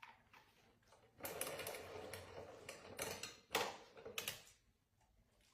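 A faint, rapid clatter of small clicks, with a few sharper, louder clicks about three and a half and four seconds in.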